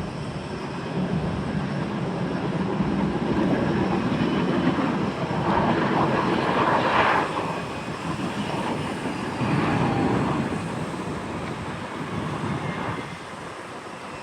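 Jet airliner passing, its engine noise swelling to a peak about halfway through, rising again briefly and then fading near the end.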